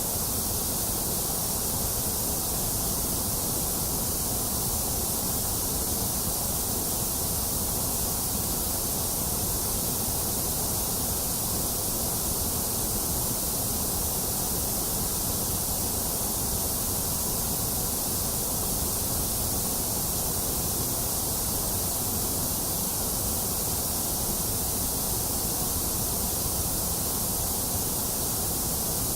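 Steady, unchanging white noise: an even, bright hiss with no rise or fall, played as a sleep aid for infants.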